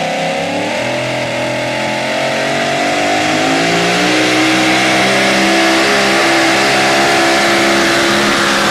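Super modified four-wheel-drive pulling truck's engine running hard under load during a pull. The pitch rises over the first few seconds and then holds steady at high revs.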